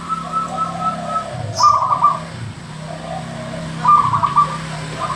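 Zebra dove cooing: rapid stuttering trilled notes, with louder bursts about a second and a half in and again near four seconds.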